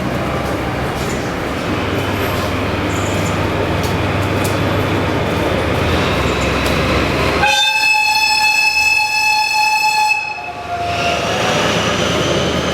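DE10 diesel-hydraulic locomotive engine running as it pulls out with its train. About seven and a half seconds in, a loud horn sounds one steady blast of about two and a half seconds that cuts off sharply.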